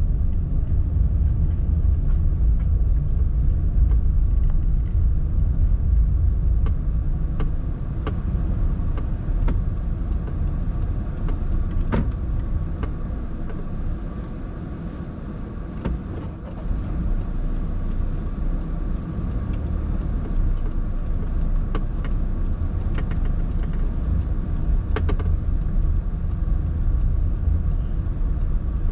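Honda N-BOX kei car driving on the road: a steady low rumble of road and engine noise that eases off about halfway through and then builds again, with faint light clicks and ticks over it.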